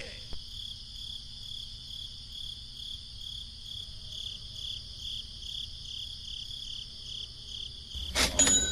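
Crickets chirping in a steady, high, pulsing trill over a faint low background hum. Near the end, a louder burst of noise lasting about a second.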